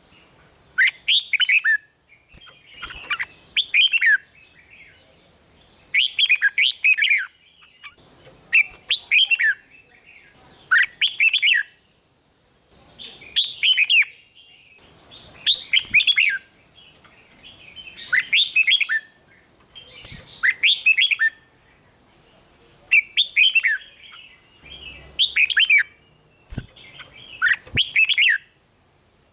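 Red-whiskered bulbul singing short, loud, warbled phrases, each about a second long, one every two seconds or so, over a faint steady high-pitched whine.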